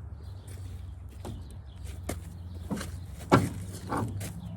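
Several short metal clinks and knocks over a steady low hum, the loudest a little past three seconds in: a freshly drilled steel pin being handled and freed from the vise after drilling.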